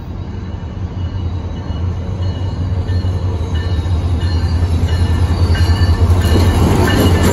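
SunRail MP32PH-Q diesel locomotive pulling a commuter train into the station, its engine drone growing steadily louder as it approaches. Thin high-pitched wheel squeals come in over the drone in the second half.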